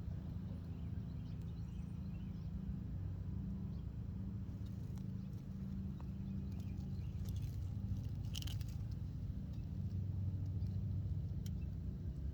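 Car engine running with a low, steady rumble, with scattered faint ticks and a brief hiss about eight and a half seconds in.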